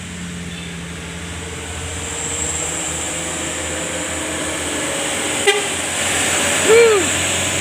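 Road traffic with heavy vehicle engines running steadily and passing, growing louder after a couple of seconds. A sharp click comes about five and a half seconds in, and a brief pitched sound that rises and falls, the loudest event, comes about seven seconds in.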